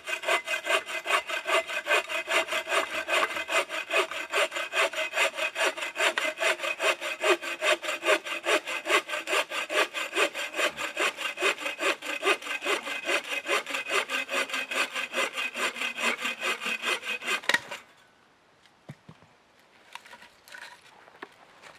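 Hand saw cutting through wood with quick, even back-and-forth strokes that stop abruptly about 18 seconds in, followed by a few faint small knocks.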